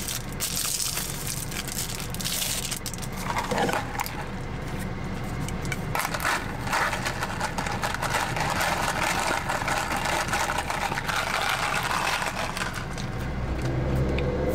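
Close-miked chewing of Chinese takeout food, a run of wet crackling mouth sounds and small clicks, with utensils knocking against a foam takeout plate. Near the end comes a sip of iced tea through a straw.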